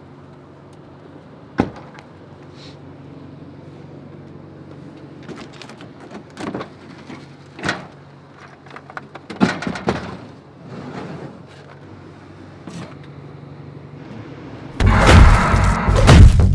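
Pickup truck idling with a low steady hum, under scattered knocks and clunks from the truck's doors and body. About fifteen seconds in, a sudden loud burst of thumping and crashing takes over.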